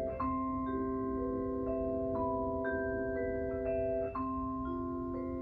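Mallet-percussion music: marimba-like notes struck in an even pattern, about two new notes a second, each ringing on over the others.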